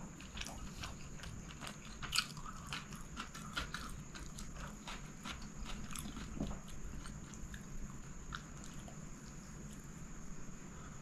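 Close-miked chewing of chicken kottu roti eaten by hand, with many small wet mouth clicks and smacks.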